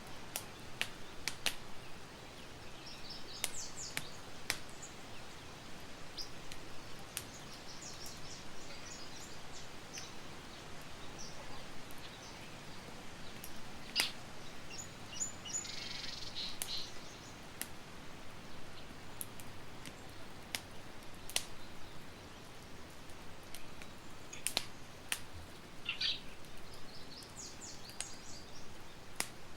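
Campfire crackling with sharp, irregular pops over a steady hiss. Small birds chirp a few times in short high twittering phrases.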